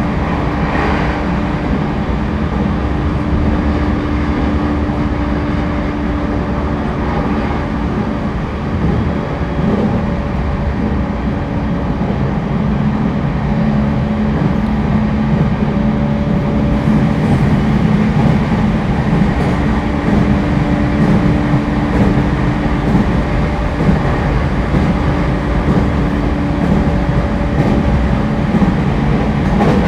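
Interior running noise of a JR East E231 series 1000 (renewed) commuter train cruising between stations: steady rolling rumble from the wheels on the track, with a continuous motor hum over it.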